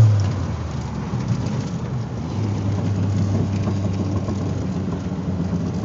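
Turbocharged Ford Mustang engine heard from inside the cabin, easing off after a pull under boost: the engine note falls and drops in loudness right at the start as the throttle is lifted. It then settles into a steady low drone with road noise at cruise from about two seconds in.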